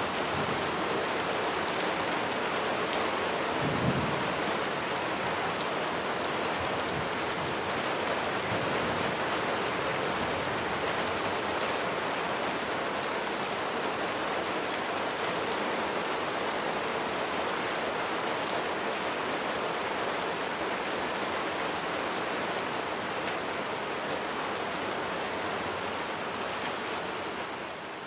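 Steady heavy rain, a dense, even hiss of drops falling on surfaces, with one brief low thump about four seconds in. The rain dips slightly in level near the end.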